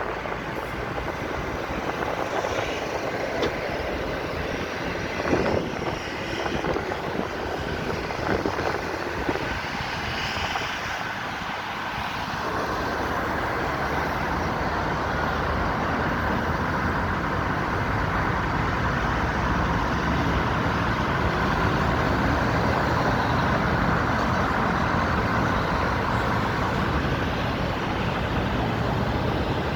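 Steady vehicle noise, a continuous rumble and hiss that grows louder about twelve seconds in.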